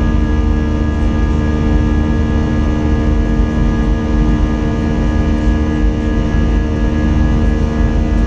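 Airbus A320's IAE V2500 turbofan engines heard from inside the passenger cabin: a steady, loud drone with a deep rumble and several fixed humming tones.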